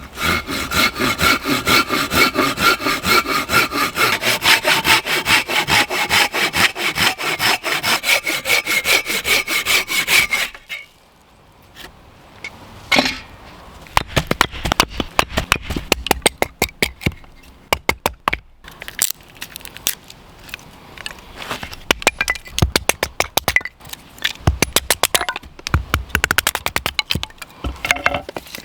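Hand saw cutting through wood with quick, even strokes for about ten seconds. After a short pause come runs of sharp wooden cracks and knocks as the firewood is broken up into small pieces.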